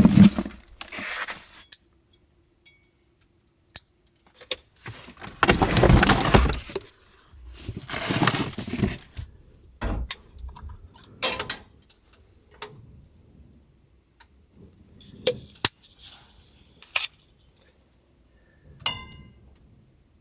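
Small handling sounds of cups and kitchen things: scattered clinks and knocks, with two louder rushing noises about five and eight seconds in.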